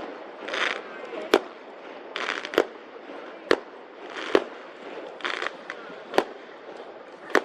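Firecrackers going off at a distance: six sharp bangs spaced irregularly, roughly a second apart, with several short hissing rushes between them, some shortly before a bang.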